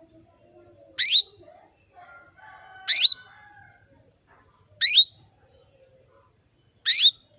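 Female canary calling, a short sharp rising call repeated four times about every two seconds. After two of the calls comes a soft run of about five quick notes. This is the call a hen canary in breeding condition uses to call a male.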